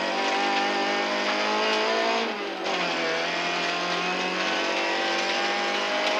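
Rally car engine at full throttle heard from inside the cockpit, pitch climbing for about two seconds, then a brief dip in revs before it runs on steady at high revs.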